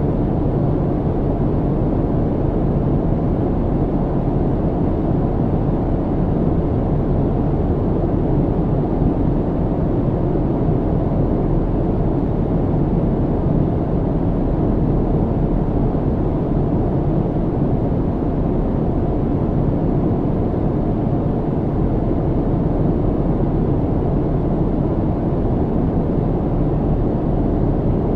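Airplane cabin noise in flight: a steady, deep, even drone with no changes.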